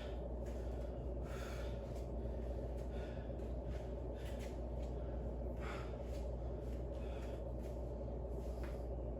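A man breathing hard between sets of leg raises, about one breath a second, over a steady low background hum.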